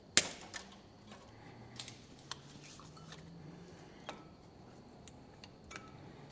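One sharp metal clunk just after the start, then scattered light clicks and taps: a front brake caliper being handled and worked back on over the brake disc.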